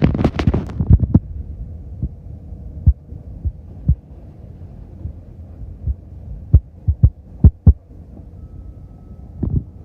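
Steady low rumble with irregular dull thumps, and a brief burst of hissing noise at the start.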